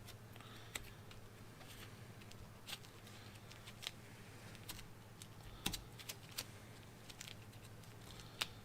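Faint, scattered light clicks and taps of small tools and parts being handled while chemical metal filler is worked into the grooves of a hydraulic cylinder piston, over a steady low hum.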